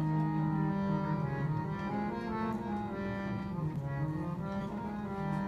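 Harmonium playing sustained notes and chords, the melody moving through several pitches in the middle before settling back on a steady held chord.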